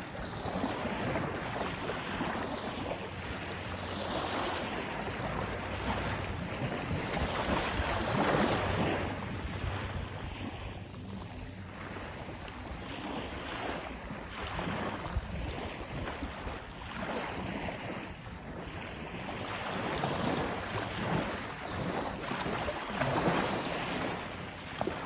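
Sea waves washing in surges that rise and fall every few seconds, with wind buffeting the microphone.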